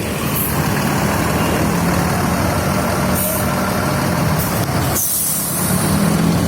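Big Bird tour bus's diesel engine running steadily, with several short hisses of compressed air from the air brakes.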